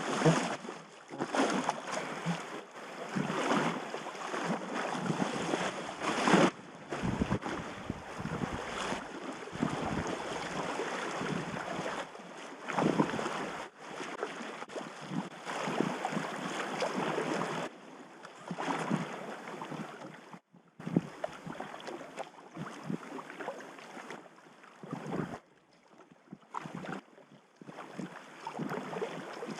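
River water rushing and splashing around a packraft in a fast, obstructed stretch of river, surging and easing irregularly, with wind buffeting the microphone.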